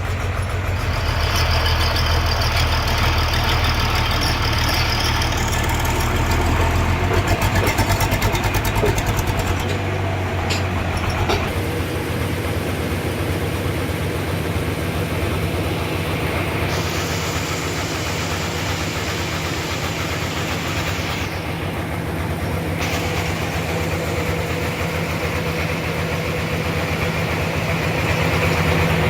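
Sawmill machinery running with a steady engine drone. The low part of the drone drops away about a third of the way in, and a higher hiss comes in for a few seconds in the middle.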